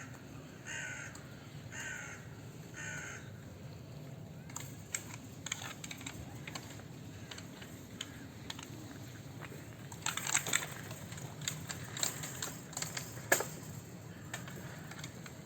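A bird, typical of a crow, cawing three times about a second apart, followed by scattered sharp clicks and crackles that bunch up near the end, over a steady low outdoor hum.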